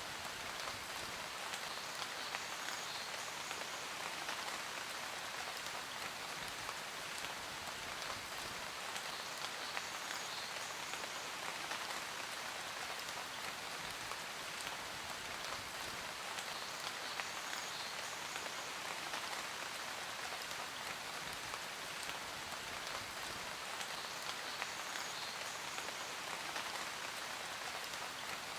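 Steady rain falling, a dense even hiss with many fine drop ticks on a hard surface.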